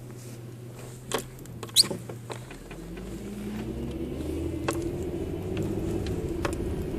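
Car engine idling, then revving up as the car pulls away, its pitch rising for about two seconds and then holding steady. A couple of sharp clicks and a short high squeak come about a second in.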